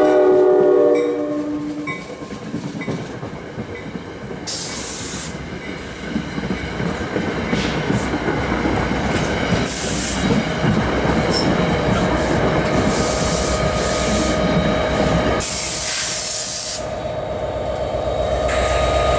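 NJ Transit commuter train arriving, cab car first: its horn sounds until about a second in, then the passing coaches' wheels rumble and clatter over the rails with short bursts of hiss. Near the end, the rear-mounted PL42AC diesel locomotive's engine comes up as it rolls past.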